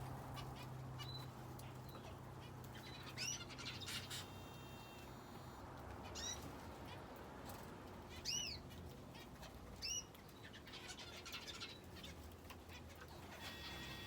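Small aviary birds, finches and a canary, calling: a handful of short, high, arching chirps spaced a second or two apart, with scattered faint clicks of birds moving about the cage.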